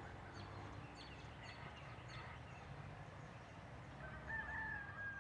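Faint bird calls: a few short falling chirps in the first couple of seconds, then one long steady call starting about four seconds in.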